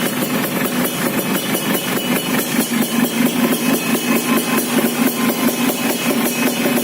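Yamaha F1ZR's two-stroke single-cylinder engine idling through a Chan Racing 'standar racing' aftermarket exhaust, a steady run of rapid, even exhaust pulses.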